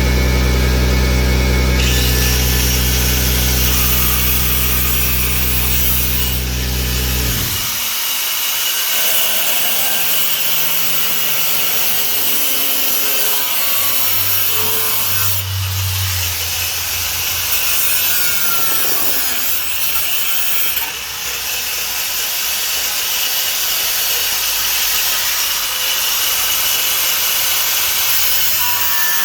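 4½-inch angle grinder with a cut-off disc cutting sheet metal, a continuous harsh hiss. A low, steady machine hum underneath stops abruptly about seven seconds in.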